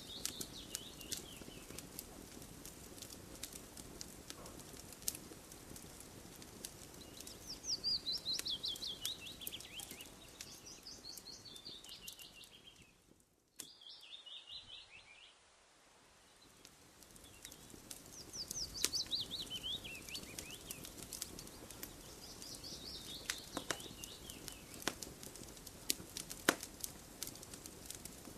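A wood campfire crackling with frequent sharp pops over a low hiss. A bird sings a fast trill that falls in pitch, about five times through the stretch. About halfway through the sound drops out almost completely for a moment.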